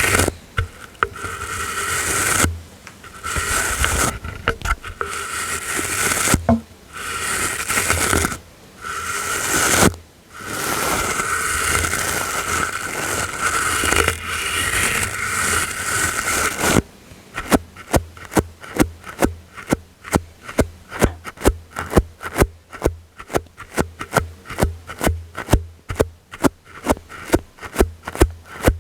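ASMR brushing: long, continuous soft brush strokes with brief pauses, changing about 17 seconds in to quick short flicks at about three or four a second.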